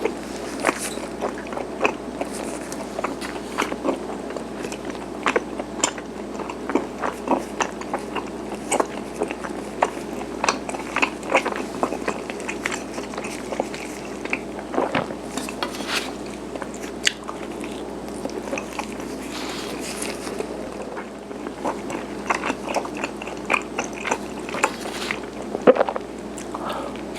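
Close-miked chewing of garaetteok, chewy Korean rice cake sticks: sticky, wet mouth clicks coming irregularly, a few each second.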